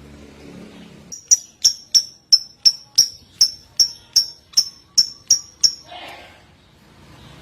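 A songbird repeating one sharp, high call note about three times a second, about a dozen notes in a row, over a faint low background hum.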